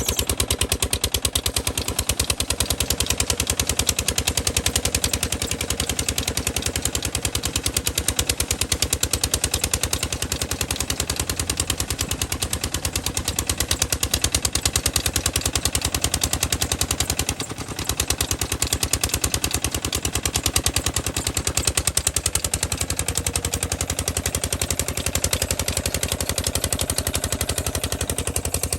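Petter diesel engine running steadily, driving a small tubewell pump, its firing making a fast, even run of knocks. The level dips briefly about halfway through.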